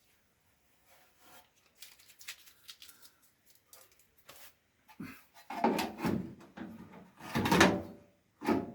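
Metal repair panel being forced and scraped into place on a car body shell. Light clicks and scrapes come first, then louder rubbing and knocking from about halfway through as it resists going on.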